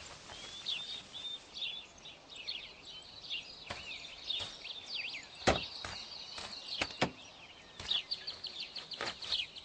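Small birds chirping and twittering steadily, with several sharp knocks scattered through, the loudest about five and a half seconds in.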